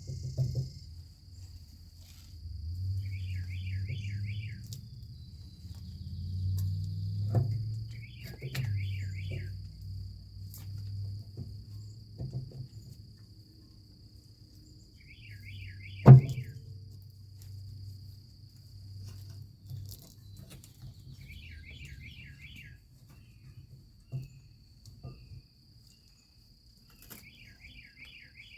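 Outdoor insect trill held steady throughout, with a bird repeating a short trilled phrase about every four seconds. Low handling noise and scattered knocks from work on trailer brake parts, with one loud sharp knock about sixteen seconds in.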